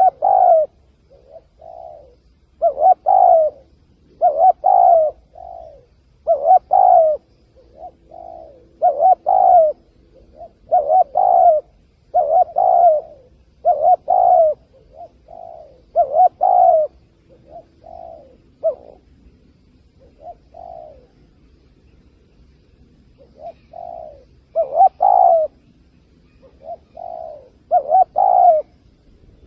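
Spotted dove cooing: a string of repeated coo phrases, each a soft note or two before louder ones, coming about every couple of seconds, with a lull past the middle.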